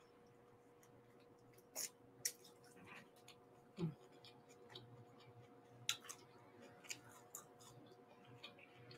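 Faint mouth sounds of a person chewing a forkful of steak and rice bowl: scattered short wet smacks and clicks, over a faint steady hum.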